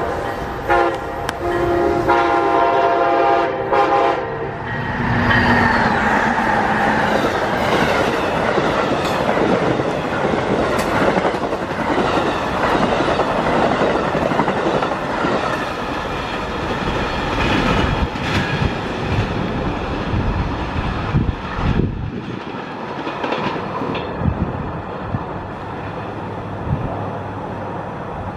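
Amtrak passenger train sounding a long blast of its chord horn, which stops about four seconds in, then passing close by with a loud rumble and the clatter of wheels on the rails, easing off a little near the end.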